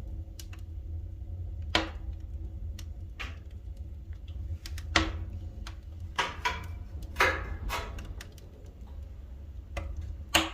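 Pine firewood burning in a wood-burning fireplace's firebox, crackling with about seven sharp, irregular pops over a low steady rumble.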